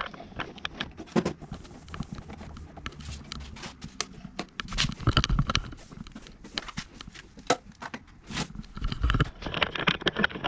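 Irregular light knocks and clatter, many in quick succession, with a denser run about halfway through and again near the end.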